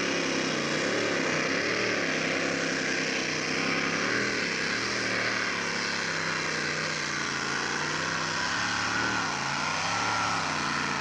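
Pulling tractor powered by a Volkswagen Beetle engine running hard under load on the pull, its engine pitch rising and falling again and again.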